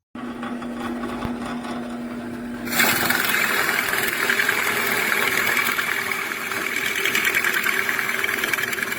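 Power drill turning a 2-inch Forstner bit, running with a steady hum, then turning suddenly louder and rougher about three seconds in as the bit starts cutting into wood.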